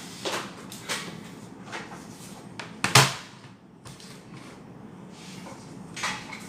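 Handling noises: a few separate knocks and clicks, the loudest a sharp double knock about three seconds in.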